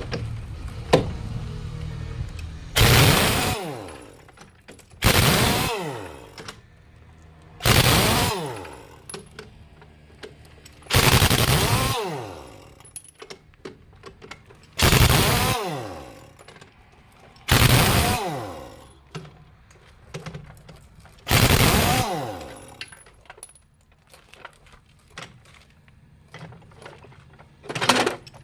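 Repeated heavy blows in the work on a 10.00 R 20 truck tyre and its steel wheel, eight strikes roughly three seconds apart, each sudden and loud and fading over about a second.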